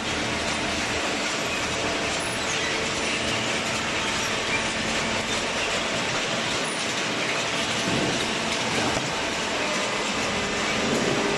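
Steady mechanical noise of industrial machinery running.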